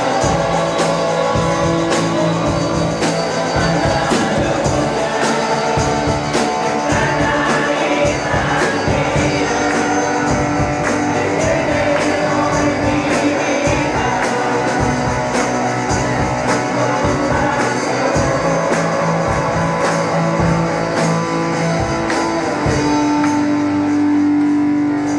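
Church worship band playing a song with singing, guitar and a steady drum beat; near the end the band settles onto a long held final chord.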